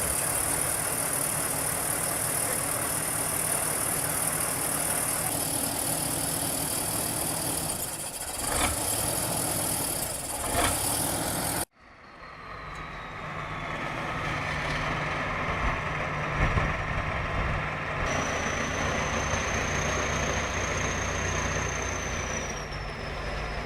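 A heavy tractor's diesel engine runs steadily, with a bright high hiss over it. A little under halfway through the sound cuts off abruptly, and another heavy engine fades in and runs steadily, with a thin whine that falls slightly near the end.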